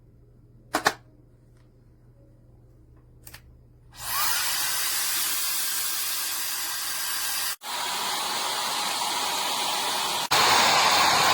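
SUPGALIY 1500 W travel hair dryer: two clicks, then about four seconds in it starts blowing with a steady rush of air. The air cuts out for an instant twice as the speed switch is moved, and after the second break, near the end, it runs louder at a higher speed.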